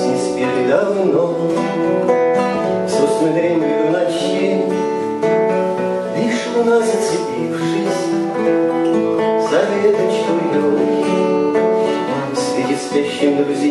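Acoustic guitar strumming a song accompaniment, with a voice singing over it in a few phrases.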